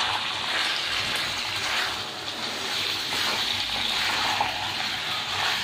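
Marinated raw chicken pieces sizzling in hot oil with browned onions in a kadai, stirred with a spatula. It is a steady frying hiss.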